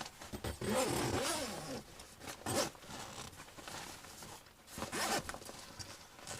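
A zipper being pulled in a few strokes: one long run about a second in, then shorter pulls after it.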